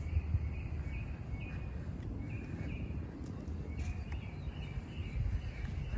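Small birds chirping: short high chirps repeated over and over at an uneven pace, over a low steady rumble.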